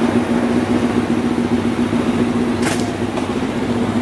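Chevrolet 502 big-block V8 in a 1971 El Camino SS idling steadily.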